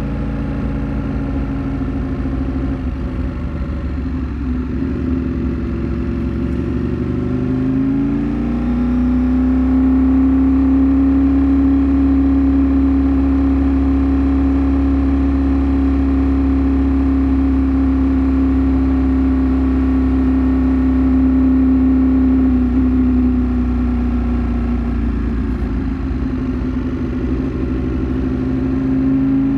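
Ducati Streetfighter V4 S's V4 engine running on the road. It climbs in revs about eight seconds in, holds a steady note for about fifteen seconds, eases off, and rises again near the end.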